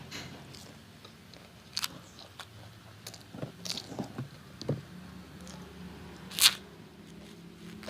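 A person biting and chewing crunchy food from a plate of ayam geprek with its side dishes, close to the microphone, with a string of short crisp crunches and the loudest one about six and a half seconds in.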